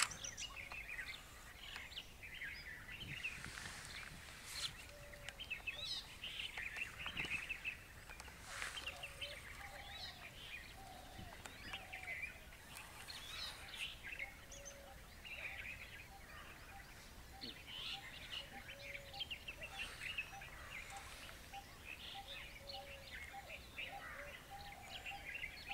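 Several birds calling and chirping, with high, chattering calls throughout. From about the middle on, a lower short note repeats about once a second.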